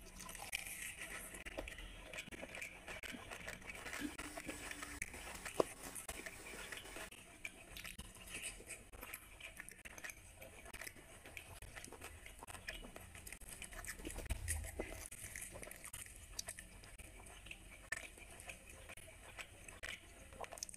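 Chewing and mouth sounds of a person eating luchi (puffed fried puri) dipped in chicken liver curry by hand, with irregular small wet clicks and smacks.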